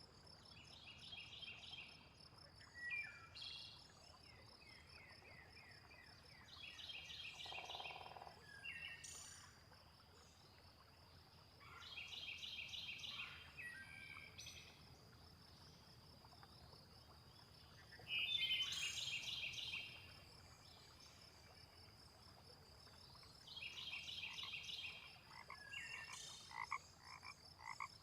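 Frogs croaking in pulsed bursts of about a second and a half, repeating every five or six seconds, over a steady high insect trill, with scattered short chirps.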